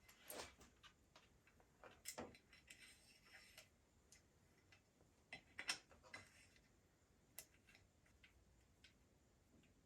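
Near silence, broken by faint, irregular clicks and light knocks, a few of them a little louder about two seconds in and near the middle.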